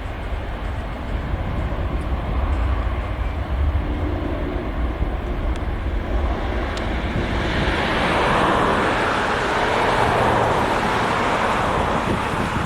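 Jet engine noise from a Boeing C-17A Globemaster III's four turbofans on take-off: a steady roar that grows louder about seven seconds in.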